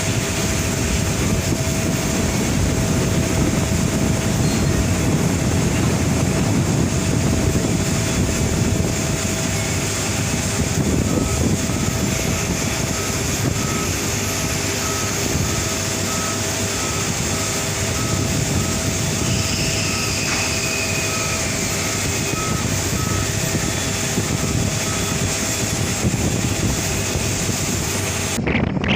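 Airbus A330-300 jet engines running steadily at taxi power, a constant rush with a steady whine. A regular beeping runs through the middle. The sound cuts off abruptly near the end.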